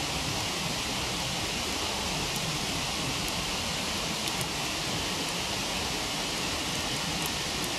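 Steady rushing of a waterfall, with a few faint crackles from a wood campfire scattered through it.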